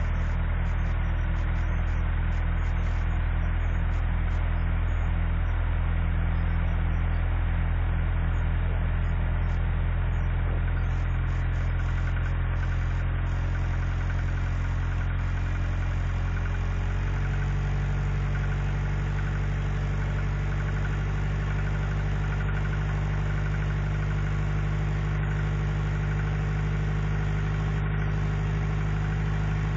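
Truck engine idling steadily just after a hard cold start in sub-zero cold. About halfway through, its note changes abruptly and then holds steady again.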